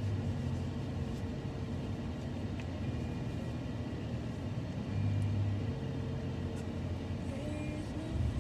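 Car engine idling, heard from inside the cabin: a steady low rumble that swells briefly about five seconds in.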